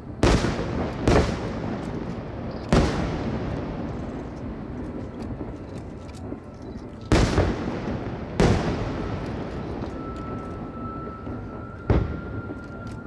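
Fireworks shells bursting: six sharp booms, irregularly spaced, each trailing off in a long rumbling decay, over a steady background din. A faint steady high tone comes in near the end.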